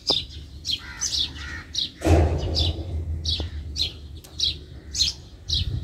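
Small birds chirping: a steady run of short, high, falling chirps, about three a second. A low rumble lasts about a second, starting about two seconds in.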